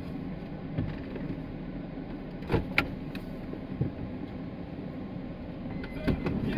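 Car cabin noise while driving, a steady low rumble. A pair of sharp knocks or rattles comes about two and a half seconds in, and a few more near the end.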